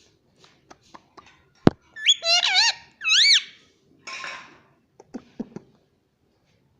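Ringneck parrot giving two loud, warbling squeaky calls about two and three seconds in, followed by a short raspy screech. Small clicks and one sharp click come before the calls, and more clicks come after.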